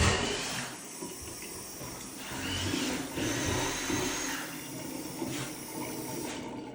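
Water running in a bathroom fixture, a steady hiss that starts suddenly and swells for a couple of seconds midway.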